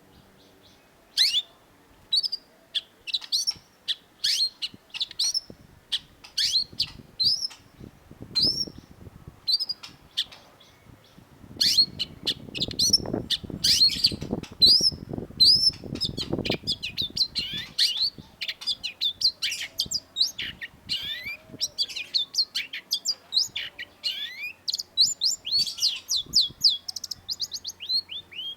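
Long-tailed shrike singing: a long run of sharp, high notes that each sweep quickly downward, spaced apart at first and then coming fast and densely packed in the second half. A low rumble runs underneath for a few seconds around the middle.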